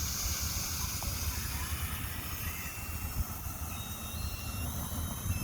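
Faint hiss of water from pop-up sprinkler heads running at too little pressure to pop up fully, fading after about two seconds, over a low uneven rumble. The weak flow points to a fault in the zone's valve, which the owner suspects is a bad diaphragm.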